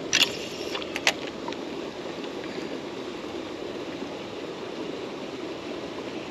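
Steady rush of water gushing out of a discharge outflow into the river, with a few sharp clicks in the first second or so.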